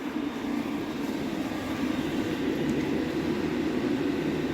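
Chinese diesel air heater running steadily on setting 10: a continuous, even whir of its blower and burner.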